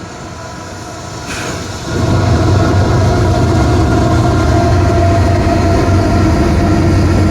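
Intermodal freight train rolling by with a steady rumble and hum, growing much louder about two seconds in and staying loud.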